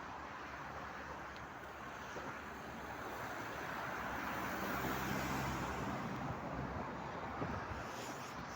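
Wizz Air Airbus A320-family airliner's jet engines as it arrives to land: a steady rumble with a low hum that swells to its loudest about five seconds in, then eases off.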